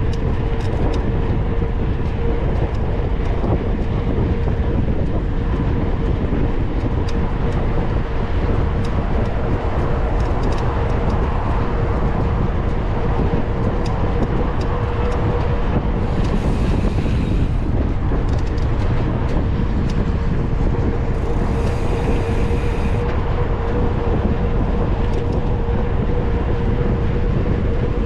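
Wind buffeting a mountain bike's onboard camera microphone over the rolling noise of tyres on the trail, with frequent small clicks and rattles from the bike. A steady hum runs underneath, and two short bursts of hiss come a few seconds apart past the middle.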